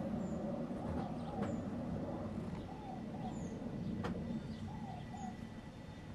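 Outdoor birdsong: scattered short, high chirps and a few lower curved calls, some in pairs, over a steady low rumble.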